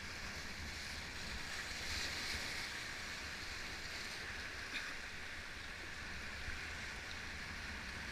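Arkansas River whitewater rushing past the raft: a steady rushing hiss with a low rumble underneath and a faint click about five seconds in.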